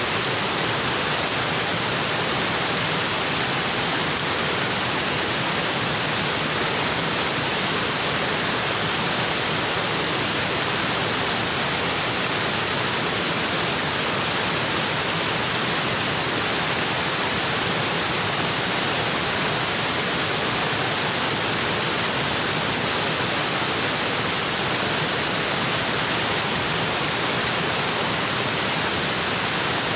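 Waterfall in a tropical forest, water falling onto rocks in a steady, even rush.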